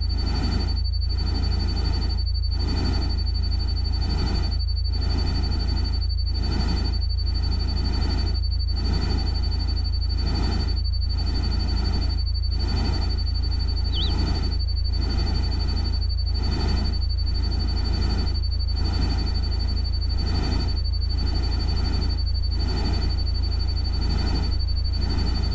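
Artificial rain-and-forest ambience: a steady noise haze that swells and fades about once a second over a deep constant rumble, with a thin steady high tone, like a cricket tone, running throughout. A single short chirp sounds about halfway through.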